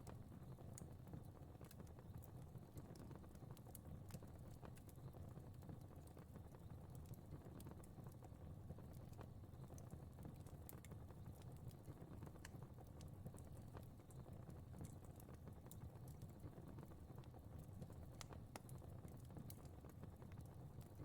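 Fire crackling quietly: a steady low rush of flames with frequent small, irregular pops and snaps.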